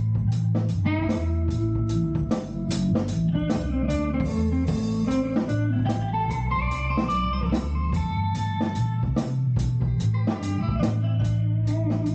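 Instrumental rock-blues jam: electric guitar lines over held bass guitar notes and a steady drum beat.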